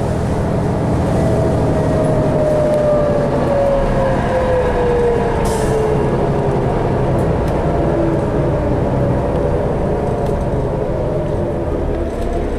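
Cabin noise of a 2012 New Flyer D60LFR articulated diesel bus under way: a steady rumble with a drivetrain whine that falls slowly in pitch over several seconds. A short hiss about five and a half seconds in.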